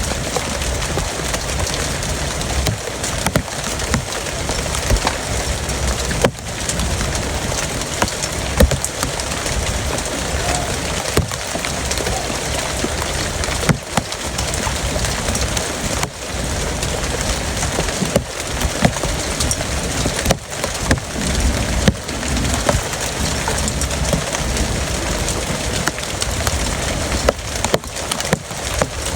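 Heavy rain falling steadily, with many sharp taps of drops striking a surface mixed into the hiss.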